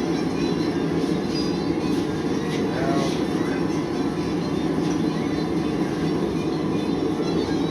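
Blacksmith's forge running with a steady roar while a workpiece heats in it.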